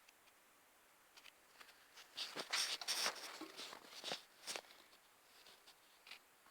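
Small metal parts and hand tools being handled on a workbench: a short run of sharp clicks and scrapes about two seconds in, lasting a couple of seconds, then a few faint ticks.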